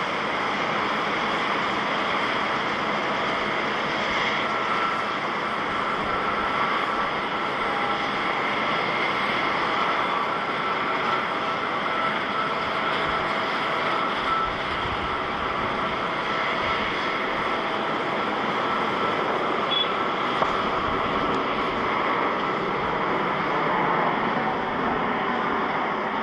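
Jet airliner engines running, a steady dense noise with a faint high whine that holds level throughout.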